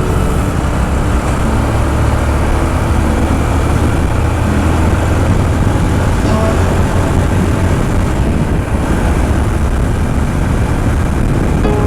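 Motorcycle on the move: a steady low rumble of wind on the microphone over engine and road noise.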